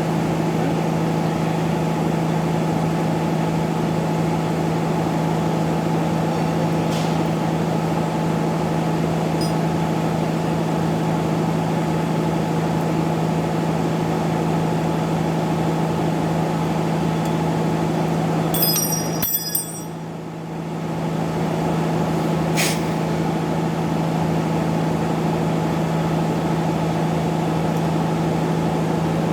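Steady mechanical hum of a running motor or engine. It dips suddenly about two-thirds of the way through and recovers over a couple of seconds, with a few sharp clicks around the dip.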